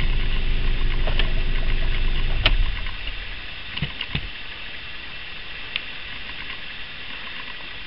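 A vehicle's engine idling with a steady low hum, then cut off with a click about two and a half seconds in. After that only a quieter background remains, with a few faint clicks.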